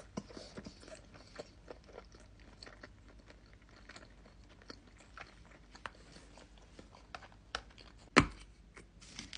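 Close-miked chewing of chicken riggies (rigatoni pasta and chicken): wet smacks and small mouth clicks in an irregular rhythm, with one sharp, loud click about eight seconds in.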